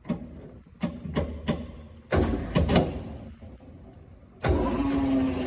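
Controls of a Tannewitz 36-inch vertical bandsaw being worked: a few sharp clicks, then a louder clunking pair of knocks. About four and a half seconds in, a motor on the saw starts and runs with a steady hum that sinks slightly in pitch.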